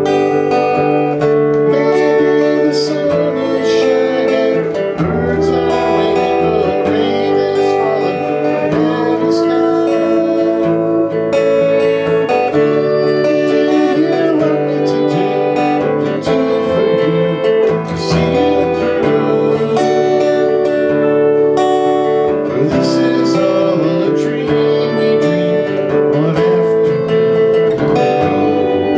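Acoustic guitar music, strummed and picked, playing without a break.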